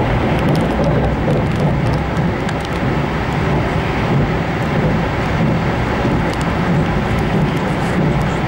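Passenger train running at speed, heard from inside the carriage: a steady running noise of the wheels and carriage, heaviest in the low end, with a few faint ticks.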